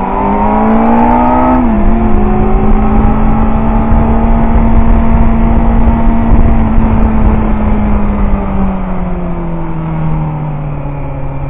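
Suzuki GSX-R750 K4 inline-four engine at full throttle from the onboard camera. The revs climb, drop sharply at an upshift just under two seconds in, then hold a steady high pitch before falling away in the last few seconds as the rider rolls off into a corner. Heavy wind rush runs under it.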